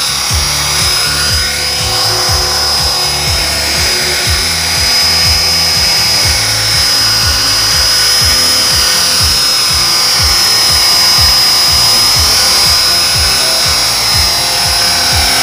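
Small electric remote-control helicopter whining steadily at a high pitch as it flies, heard over music with a steady beat.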